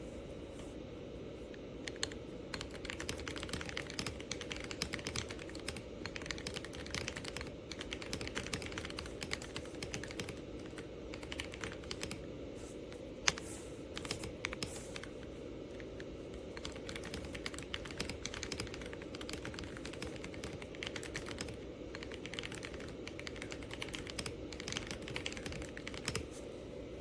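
Typing on an AULA F99 mechanical keyboard with pre-lubed linear switches: stock gray wood switches plus a row swapped to milky yellow switches. Fast, irregular keystrokes, with one sharper clack about 13 seconds in.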